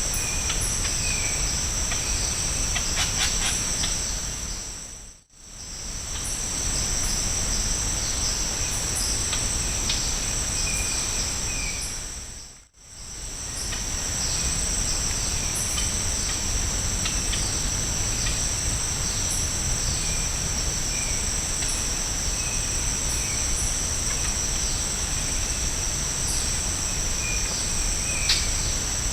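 Tropical forest insects droning steadily at a high pitch, with short, faint bird calls repeating through it. The whole sound fades out and back in twice.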